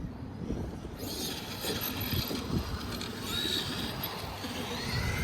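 Electric RC truck's motor whining, with faint rises in pitch as it speeds up, over the rough noise of the truck running.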